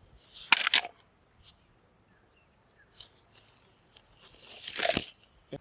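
Rustling and crunching handling noises in a few short bursts: a sharp one about half a second in, smaller ones around the middle, and a louder one near the end.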